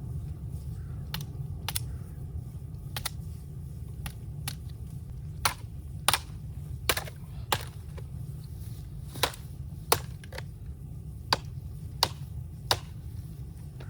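Bamboo cracking with about fifteen sharp, short snaps at uneven spacing, louder and closer together in the second half, over a steady low rumble.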